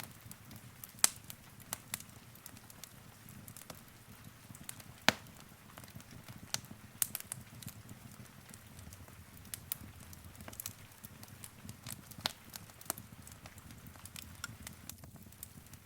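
Wood fire in a fireplace crackling: sharp, irregular pops and snaps, the loudest about a second and about five seconds in, over a low, steady rumble of the flames.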